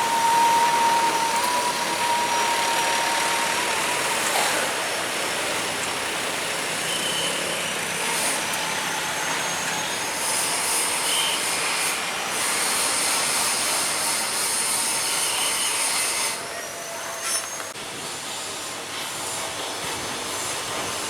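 Jet airliner engines: a loud, steady rushing noise with a high whine that holds for the first few seconds, the noise easing somewhat about sixteen seconds in.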